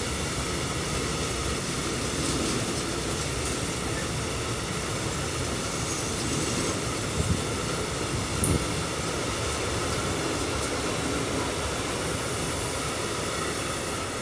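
Freight train of open high-sided wagons rolling past, with a steady wheel-on-rail rumble and two sharp knocks about seven and eight and a half seconds in. The sound starts to die away at the very end as the last wagon clears.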